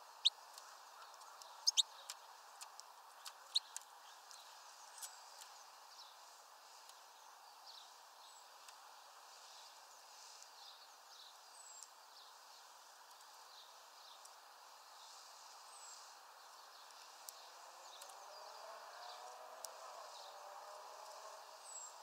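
A small bird pecking at a mesh seed-bag feeder: a few sharp taps in the first four seconds. Short, high bird chirps come and go over a steady low background hiss.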